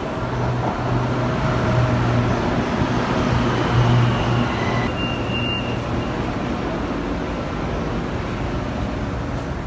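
Elevated metro train pulling into the platform: a steady low hum from its motors with the rush of the passing cars. It is loudest about four seconds in and eases as the train stops, and a short high tone sounds about five seconds in.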